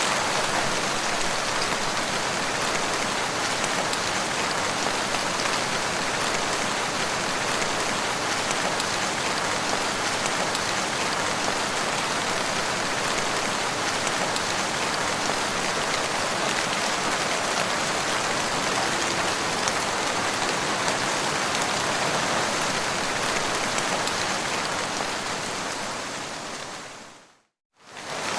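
Steady rain falling on the ground, an even hiss of drops. Near the end it fades out to silence for about a second and then swells back in.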